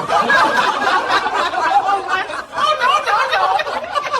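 Several people laughing and chuckling at once, in a continuous run of voiced laughter.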